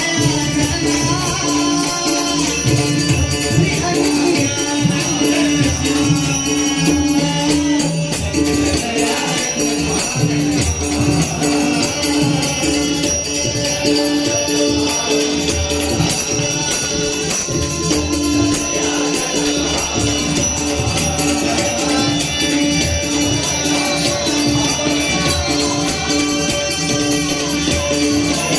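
Marathi abhang devotional singing with voices, carried by a steady, even beat of jingling percussion.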